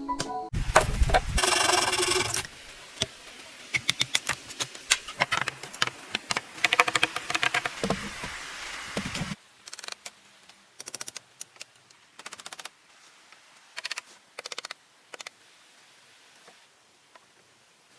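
A loud, noisy stretch with a ringing tone during the first couple of seconds, then a run of sharp clicks and knocks that stops abruptly about nine seconds in, leaving only a few scattered clicks.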